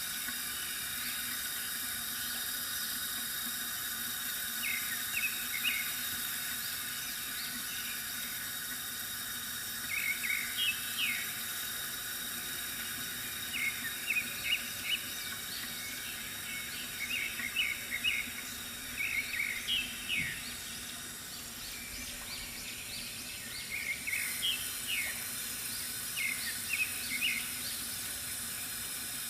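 Bamboo water fountain with water trickling steadily, and birds chirping in short clusters of quick notes every few seconds.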